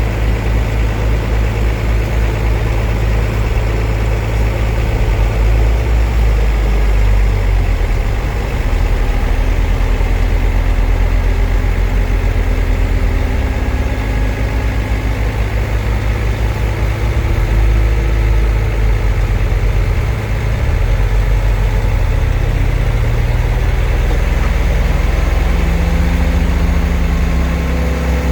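Heavy diesel engine of earthmoving machinery running steadily with a deep, low rumble, its engine speed shifting up and down a few times.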